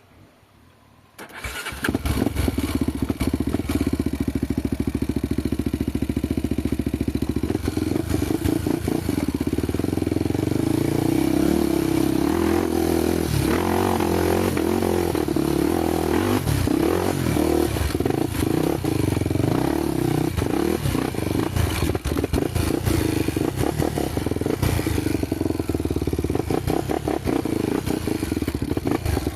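Honda trail motorcycle engine that comes in suddenly about a second in, then runs loud with revs rising and falling as the bike is ridden.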